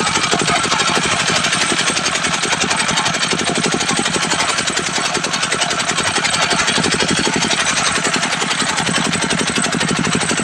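Diesel engine driving a mobile circular sawmill, running steadily with a fast, even pulsing.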